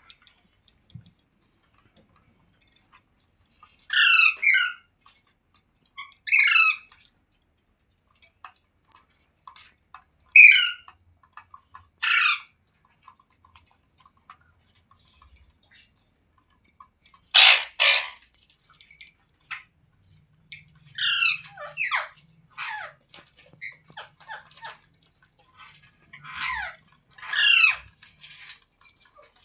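Ringneck parakeet calling, about a dozen short, loud, high-pitched squawks with wavering pitch, a few seconds apart, some in quick pairs.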